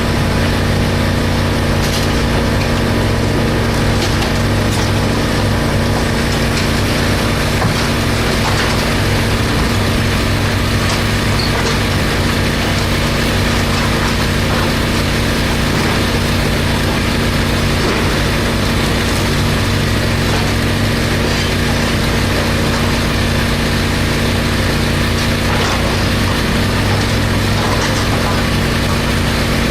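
Heavy construction machine's engine running steadily, with scattered short clicks and knocks over it.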